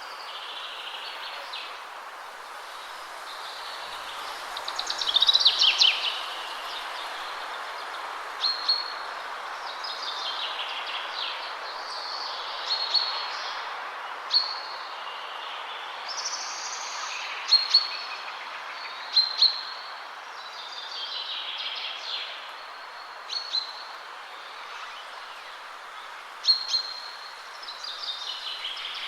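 Wild birds singing and calling in short repeated phrases and trills over a steady rush of wind through the trees.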